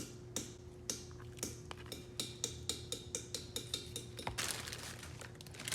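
A spoon scraping and tapping against a container as hummus is scooped out onto a food bowl: a quick run of light clicks, about three a second, with a short scraping hiss near the end, over a faint steady hum.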